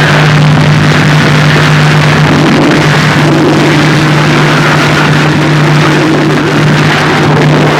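Harsh noise music: a loud, unbroken wall of distorted noise over a steady low hum, with a wavering, engine-like mid tone joining about two seconds in.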